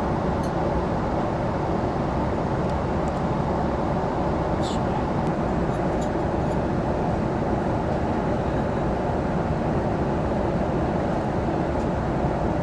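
Steady airliner cabin noise in flight, an even rushing drone from the jet's engines and airflow, with a few faint clicks.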